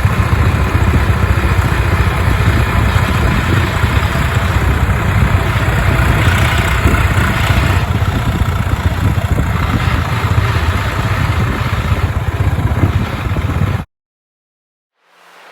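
Heavy diesel engine running steadily with a clattering rattle, loud and constant; it cuts off abruptly near the end.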